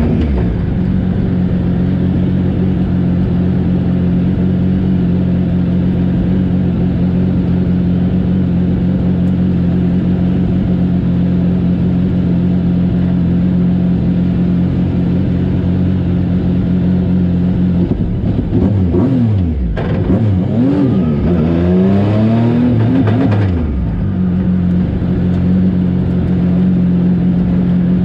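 Yamaha FZ-09 inline three-cylinder engine idling steadily in a race car. About two-thirds of the way through, its pitch rises and falls several times over a few seconds, then settles back to idle.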